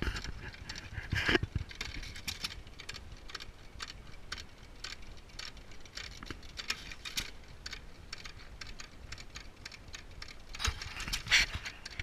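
Two antique hit-and-miss engines, a Majestic and a Waterloo, running together: a quick, irregular mechanical clicking, with louder bursts about a second in and again near the end.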